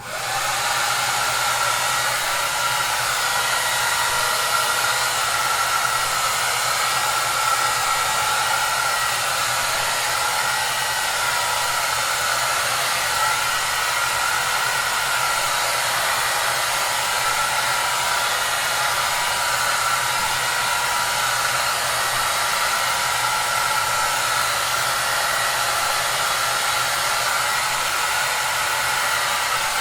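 Hair dryer running steadily: a dense, even airy hiss with a steady whine riding on it. It starts abruptly after a moment of silence, then holds unchanged.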